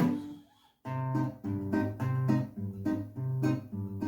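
Acoustic guitar: a loud strummed chord rings out and dies away into a brief near-silent gap, then a fingerpicked pattern of single notes over a repeating bass line begins about a second in.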